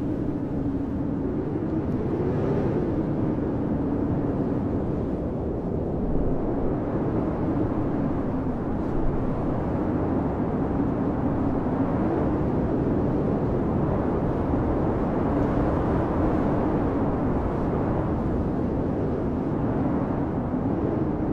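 Blizzard wind blowing steadily, with a low howl that wavers slowly up and down in pitch.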